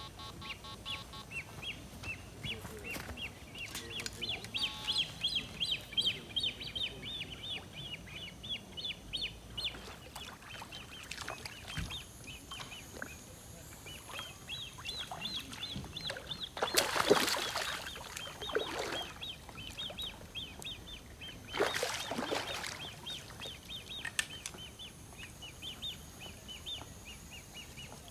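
Bird calling in long runs of quick, short, high chirps. Two louder bursts of rushing noise, each about a second long, come a little past the middle and again about five seconds later.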